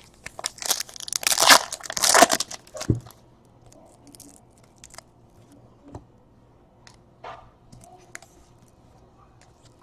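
Foil wrapper of a trading-card pack being torn open, a couple of seconds of crinkly tearing, followed by faint clicks and rustles of cards being handled.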